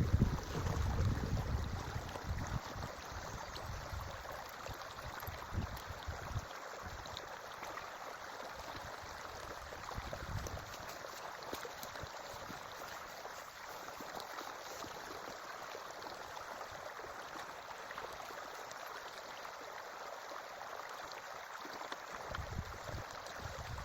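Forest creek water running steadily. There are low rumbles in the first couple of seconds, briefly about ten seconds in, and again near the end.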